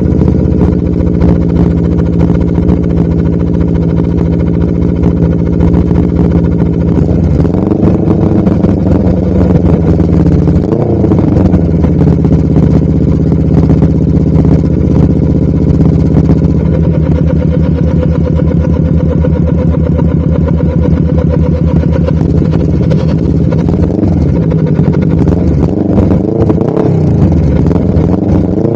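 Honda CBR250RR motorcycle with a DST full-system aftermarket exhaust, running on the road at a fairly steady engine speed. The revs swell briefly twice about a third of the way in, the note shifts a little past halfway, and the revs climb near the end.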